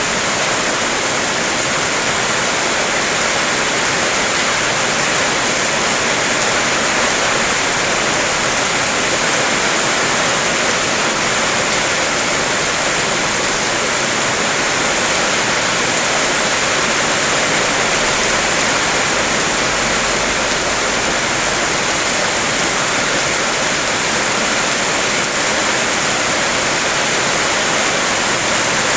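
Heavy rain falling: a steady, dense hiss with no single drops standing out.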